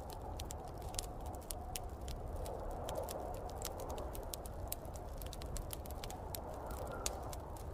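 Wood fire in a fireplace crackling, with many irregular sharp pops, over a steady low rumble and a swelling and fading whoosh of snowstorm wind.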